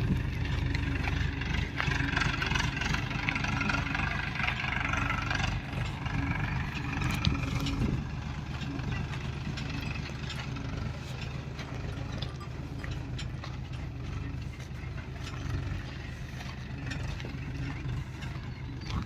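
Diesel engine of heavy farm machinery running steadily. It is louder with added mechanical clatter for the first several seconds, then settles to a quieter, even running.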